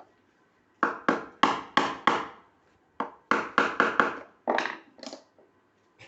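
A run of sharp knocks, about three a second, in three bursts: five, then five, then two or three. They sound like blows or taps on a hard surface during work on the machine.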